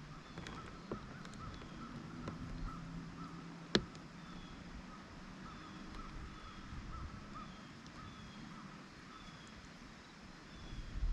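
Faint, fast series of short repeated animal calls, with a fainter higher call repeating about once a second and a single sharp click about four seconds in.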